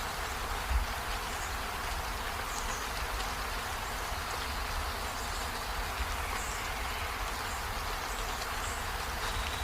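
Steady rain falling, an even hiss with a low rumble beneath, and faint short high notes now and then.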